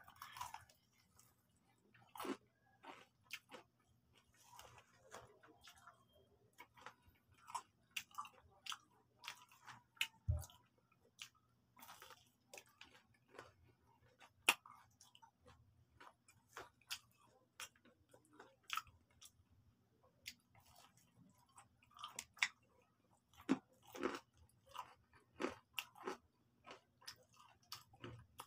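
Close-miked chewing and crunching of crispy breaded fried chicken, with irregular sharp crunches as the coating is bitten and chewed. A single dull low thump about ten seconds in.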